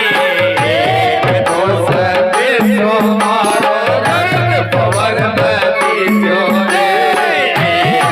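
Rajasthani Phagun folk song played on dholak and electronic organ, with a voice singing the bending melody over a steady drum rhythm.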